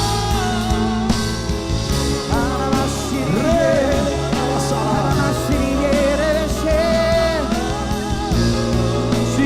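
Church worship music with singing: voices hold long, wavering notes over a steady keyboard and bass.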